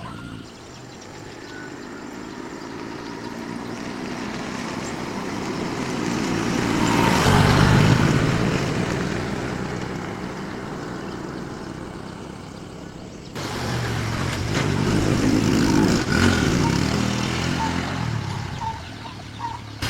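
A motor vehicle's engine and road noise growing louder as it passes, then fading. After an abrupt break about two-thirds of the way through, a vehicle passes again.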